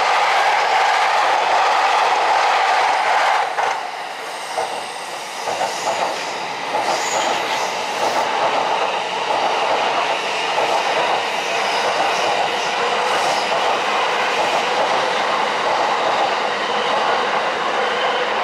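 A train running past, its wheels clacking over rail joints. The sound dips briefly about three and a half seconds in, then the clattering carries on.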